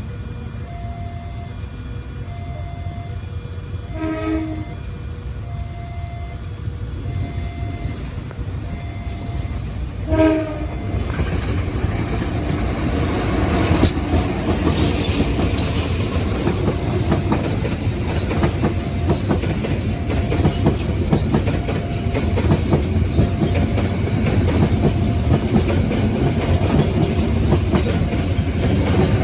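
A train horn gives two short blasts while a warning tone beeps on and off. From about a third of the way in, a passing train's rumble and clatter of wheels on rail grows loud and continues to the end.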